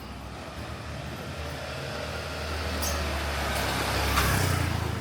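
A motor vehicle passing close by on the street. Its low engine rumble and road noise grow louder to a peak about four seconds in, then begin to fade.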